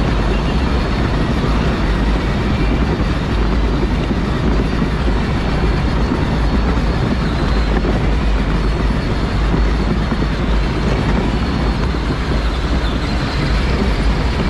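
A Power Wheels ride-on car driving, heard from on board: a steady, loud rumble of motor, wheels and wind on the microphone, with a faint high whine.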